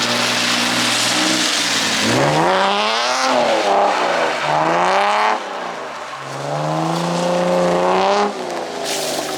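Drift car's engine revving hard on a wet track. It holds steady at first, then about two seconds in it climbs and falls in several sweeps as the driver works the throttle through the slide, easing off near the end. A steady hiss of rain and wet tyres runs underneath.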